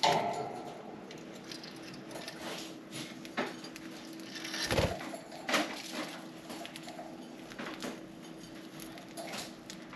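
Budgies pecking and nibbling at millet and seed cakes in their cage: scattered small clicks and taps, with a sharp tap at the very start and a louder knock about five seconds in.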